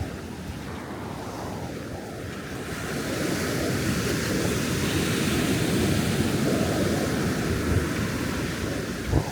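Ocean surf breaking and washing up the beach, swelling louder about three seconds in, with wind rumbling on the microphone and a brief thump near the end.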